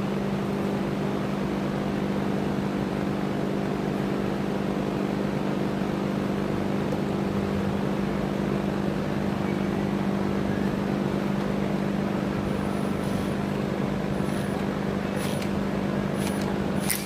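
Milwaukee cordless drill running steadily under load, a 1/4-inch bit drilling through the steel rear trunnion of an AK-pattern rifle. The motor's hum holds one pitch throughout and stops right at the end.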